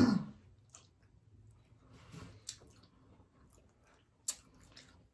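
Quiet close-up eating sounds: wet mouth clicks and lip smacks of people chewing, with a few sharper clicks, the sharpest about four seconds in.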